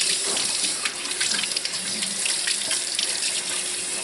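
Tap water running steadily and splashing as a puppy is bathed under it.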